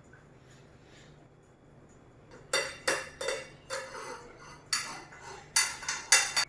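A metal cooking utensil scraping and knocking against a pan and plate while food is dished up: a run of about eight sharp clinks and scrapes beginning about two and a half seconds in, after a quiet start.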